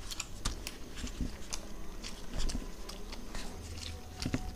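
Close-miked chewing and wet mouth smacks of two people eating roti with palak paneer and paneer pieces, along with soft tearing of the flatbread by hand: many small, irregular clicks and smacks.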